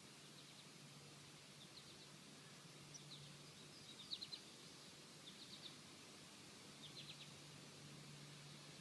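Faint high bird chirps, coming in about five quick clusters of three or four short notes each, over a faint steady low hum.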